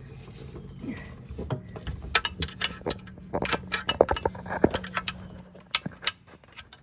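Metal hand tools clinking and knocking against the metal parts of a golf cart: a run of irregular sharp clicks and clanks, over a low steady hum.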